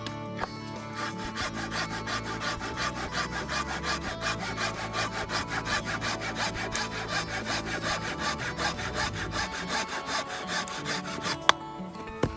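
A saw cutting through a piece of firewood in steady back-and-forth strokes, about four or five a second, stopping near the end with a single sharp knock.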